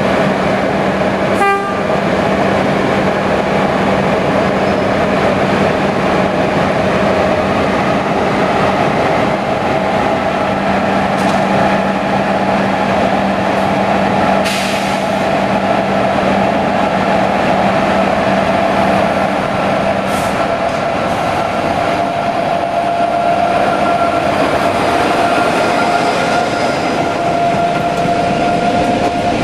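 A locomotive-hauled train on the move at a station, running with a steady loud mechanical drone. A low hum stops about two-thirds of the way through, while a higher tone slowly rises in pitch as the train gathers speed.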